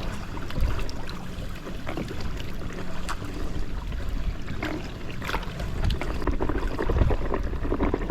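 Paddle strokes and water splashing around an inflatable kayak under way, with a low rumble of wind on the microphone. A steady low hum stops about three seconds in.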